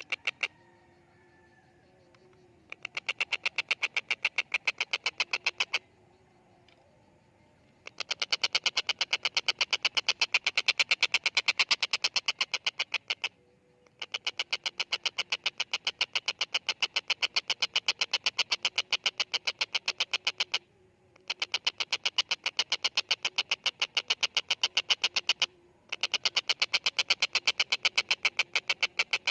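Stork-billed kingfisher (tengkek buto) calling in long, fast rattling series of sharp repeated notes. After a brief burst at the start come five rattles of several seconds each, separated by short pauses.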